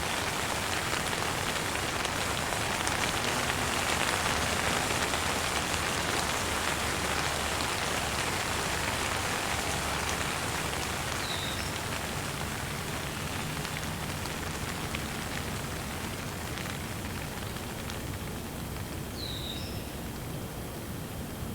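Steady, gentle rain falling, a dense even patter, with a bird chirping briefly twice, once about halfway through and again near the end.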